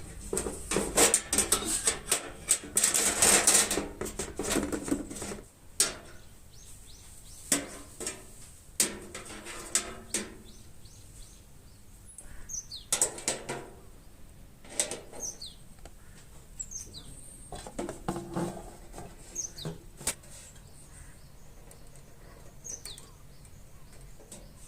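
Clatter and sharp knocks of handling and working metal parts, busiest in the first few seconds and then scattered. Birds give short, high, falling chirps about five times in the second half.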